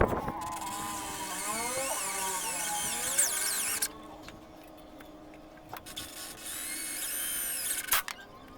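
Power drill running in two bursts, its whine rising and falling in pitch as the trigger is worked, with a sharp knock at the start and another near the end.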